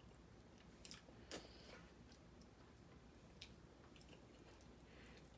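Mostly near silence with a few faint clicks and soft chewing from eating snow crab legs, the loudest click about a second in.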